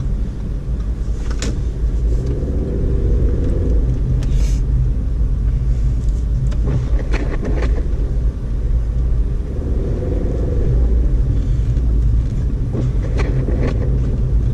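2012 Audi A4 Quattro driving on a snow-covered road: a steady low rumble of engine and tyres, with a fainter tone rising and falling twice and scattered clicks and knocks.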